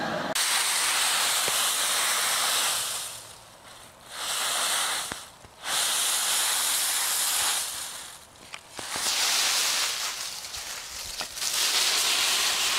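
Dry autumn leaves rustling and crunching in loud swells as a small dog leaps and burrows through a leaf pile, about five bursts a couple of seconds long with short lulls between.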